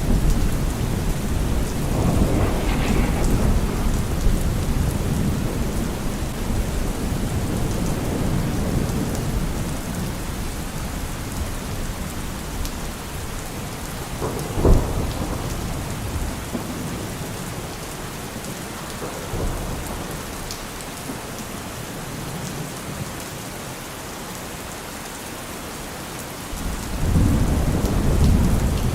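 Steady rain falling with rolling thunder: a long low rumble that fades over the first several seconds, a sharp thunderclap about halfway through, and another rumble building near the end.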